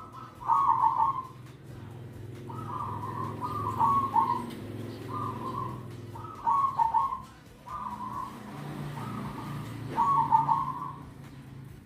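Zebra dove (perkutut) cooing: a series of short, trilling, bubbling coo phrases, about six of them, each a second or so long and repeated every one to two seconds.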